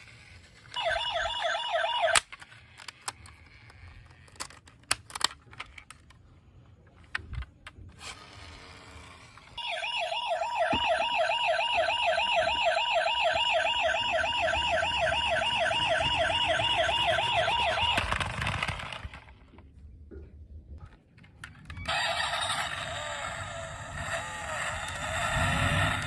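Electronic siren of a battery-powered toy emergency vehicle, a fast warble sounding briefly about a second in and again for about nine seconds from about ten seconds in. Sharp clicks and knocks come in between, and a different siren-like electronic sound starts a few seconds before the end.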